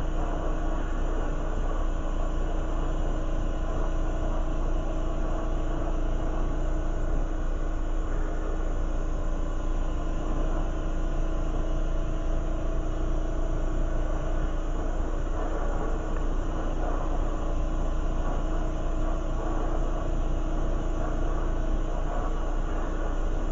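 Lampworking torch flame burning steadily, a continuous rumbling rush with a steady hum under it, while glass is heated to form petals.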